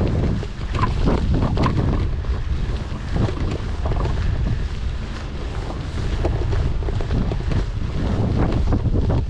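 Wind buffeting the microphone during a bike ride, a steady low rumble with irregular crackles, most of them in the first two seconds.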